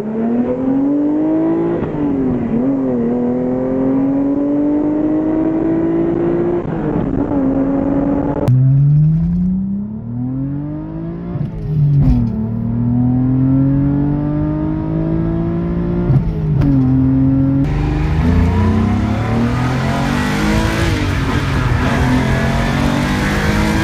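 Three short clips in a row of cars accelerating hard through the gears, the engine note climbing and dropping back at each upshift. The first and last are the 12-cylinder engines of a Ferrari Testarossa and a Lamborghini Countach; the middle one, from about 8 s to about 18 s in, is a Mazda MX-3's 1.8-litre V6 with a similar exotic-sounding exhaust note.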